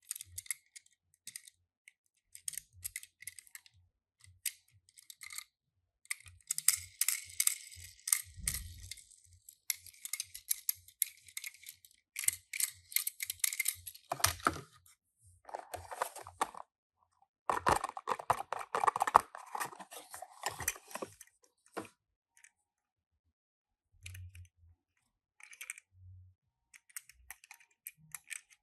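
Small toy cars and their cardboard and plastic packaging being handled and unboxed: a run of light clicks and taps, with spells of crinkly rustling and a louder stretch of rubbing and rustling in the middle.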